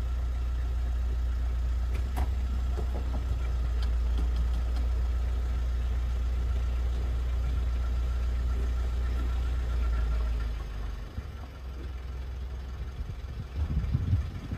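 A car engine idling steadily with a low hum, which cuts off about ten seconds in. A few low bumps follow near the end.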